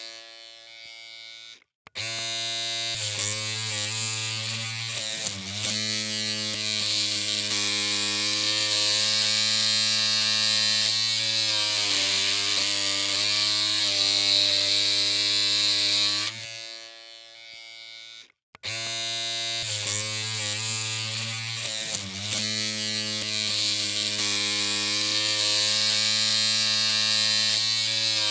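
Electric hair clippers humming steadily. They cut out and start again twice, and the pitch wavers briefly a few seconds after each restart.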